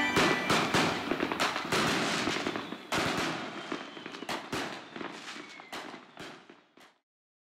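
Many fireworks and firecrackers going off in a dense, continuous crackle of bangs, with a faint whistle gliding in pitch in the middle. The sound grows quieter and stops about seven seconds in.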